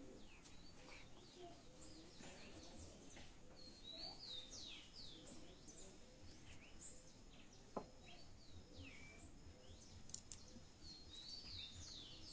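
Faint chirping of small birds: short, quick falling calls scattered throughout. There is a single soft click about eight seconds in.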